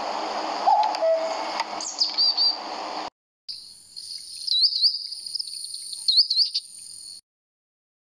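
A common cuckoo gives one two-note "cuck-oo" call, falling in pitch, with high chirps of other birds behind it; that recording cuts off about three seconds in. After a short gap, a weaverbird's high chirps and chattering follow and stop shortly before the end.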